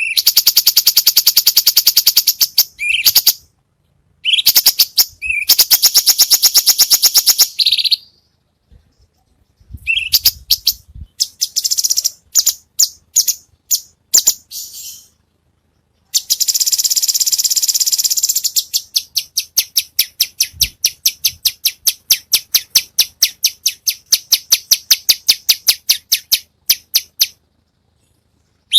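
Recorded songbird song played as a masteran training track: very fast, high-pitched trills and rolls of repeated notes in several bursts with abrupt gaps between them. The last and longest burst opens as a dense trill, then slows into separate notes at about four a second.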